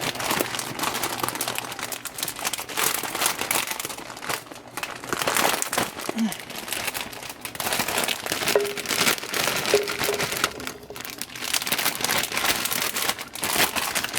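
Plastic bag of broccoli florets crinkling and rustling as the florets are shaken out into a pan, with continuous crackling and small dips in loudness throughout.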